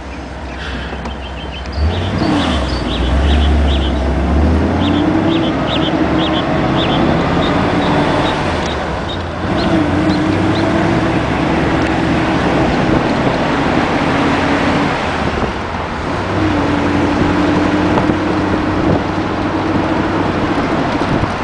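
1955 Ford Thunderbird's V8 engine running as the car drives, a steady engine note that dips and resumes twice, about 9 and 15 seconds in.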